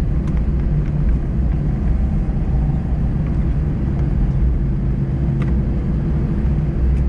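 Airliner cabin noise of an Airbus A320 taxiing: a steady hum from the idling CFM56 engines over a low rumble, with a few faint clicks.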